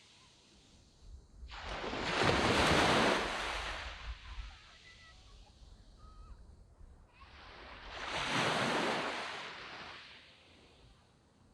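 Small waves breaking and washing up a sandy beach. Two swells of surf hiss rise and fade, each lasting two to three seconds, with a quieter wash between them.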